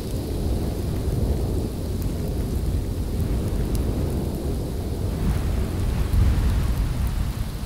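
Storm ambience: a continuous deep rumble under a rain-like hiss, the hiss growing brighter about five seconds in.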